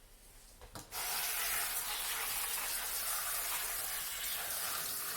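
Kitchen sink tap turned on about a second in and running steadily, water spraying onto spinach in a colander.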